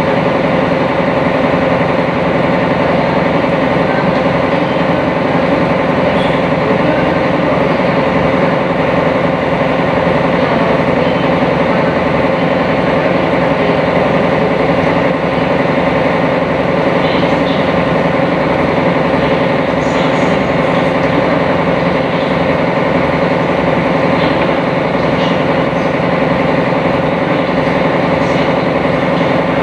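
Sightseeing cruise boat's engine running steadily under way, heard on board as a constant, even hum.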